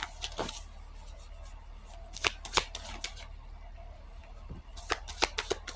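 Tarot cards being shuffled and handled: a series of short, sharp card snaps and flicks, several in quick succession near the end.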